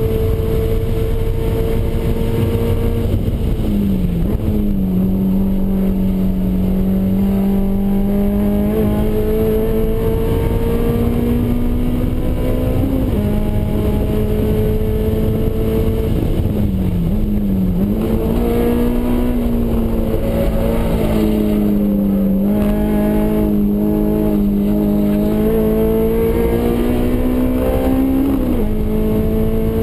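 Honda S2000's four-cylinder engine with a custom exhaust, heard from inside the cabin, pulling hard at steady high revs with the pitch slowly climbing. The pitch dips sharply and recovers about four seconds in and again around seventeen seconds, with shorter jumps around thirteen seconds and near the end.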